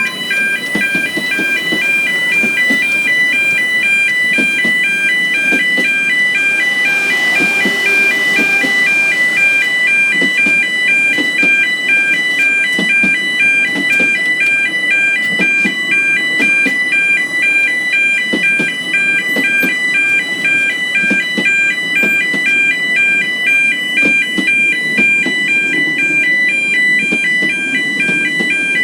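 Level crossing warning alarm sounding continuously: an electronic alarm of high tones switching rapidly back and forth in a steady rhythm. Under it, a low rumble with irregular knocks as a train passes over the crossing.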